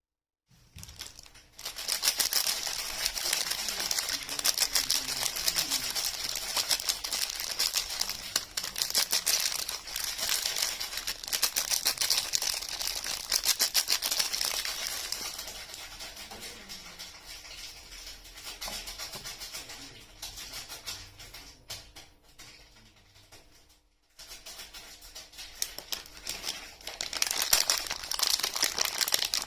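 Soap packaging being unwrapped by hand, dense crinkling and tearing of the wrapper close to the microphone. It is strongest in the first half, softer for several seconds, stops briefly, then grows louder again near the end.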